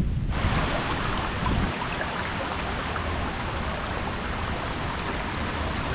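Steady rush of flowing creek water that cuts in suddenly just after the start, with a low wind rumble underneath.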